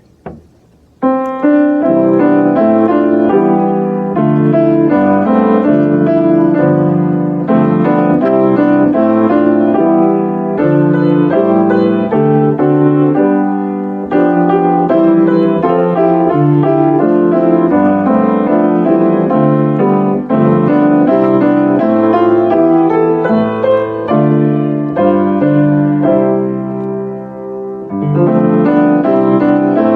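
Piano playing slow chords in a closing voluntary after the benediction, starting about a second in after a brief click.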